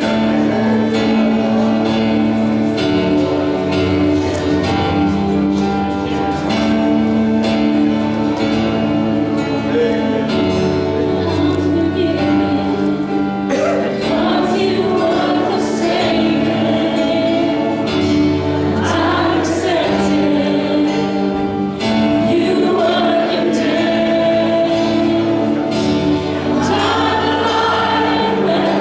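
Worship team playing a gospel-style praise song, with sustained instrumental chords and a choir of voices singing over them from about halfway through.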